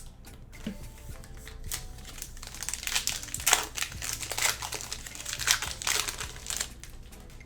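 Plastic foil wrapper of a football trading-card pack being torn open and crinkled by hand: a run of crackling that starts about two and a half seconds in and stops shortly before the end.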